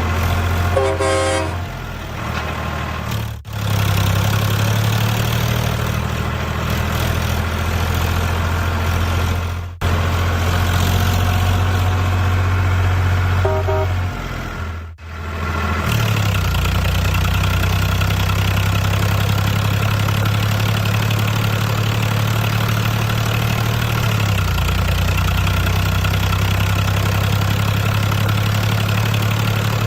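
A small engine or motor running steadily with a low hum. It breaks off sharply three times and shifts pitch twice. Two short tones sound over it, about a second in and near the middle.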